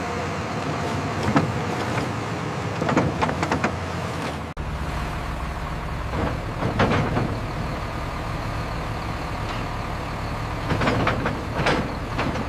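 Heavy diesel construction machinery running steadily, with several sharp metallic clanks and knocks. The engine sound breaks off and changes abruptly about four and a half seconds in.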